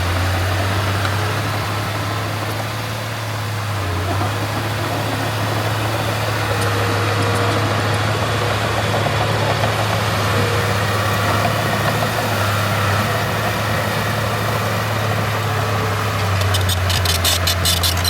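Heavy diesel earthmoving machine's engine running steadily with a low drone, easing off briefly about three seconds in. Near the end a rapid metallic clatter of sharp clicks joins it.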